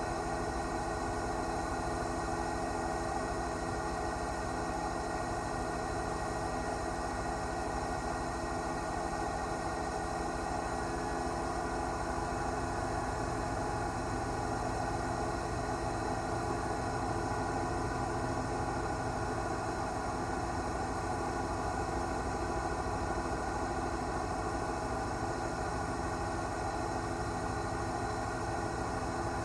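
News helicopter's engine and rotor running steadily: an even drone made of many steady tones that holds at the same level throughout.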